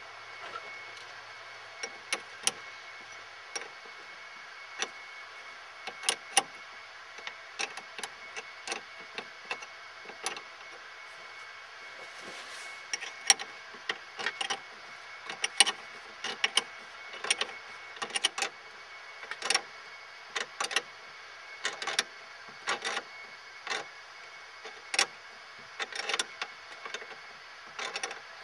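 Irregular sharp metallic clicks and taps of hand tools on a truck battery and its new terminal clamps as the battery is fitted and the clamps tightened, sometimes singly and sometimes in quick clusters.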